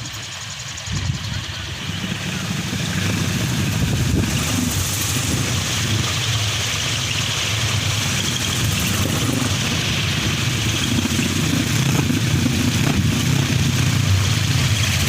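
Kolecer, a wooden wind propeller on a tall pole, spinning fast in strong wind with a steady engine-like hum, over the rush of the wind. The hum builds up over the first few seconds, then holds.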